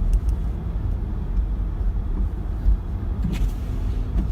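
Car driving: a steady low rumble of engine and road noise, with a brief click about three seconds in.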